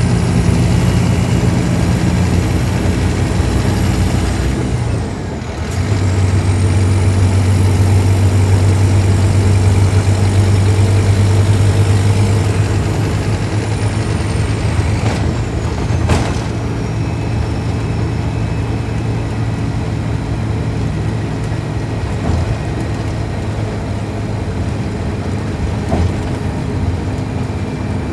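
Scania K310IB bus's diesel engine running under load. The engine note drops briefly about five seconds in, like a gear change, then pulls strongly and eases off after about twelve seconds. A high whine rises and falls with it, and a few light knocks come near the end.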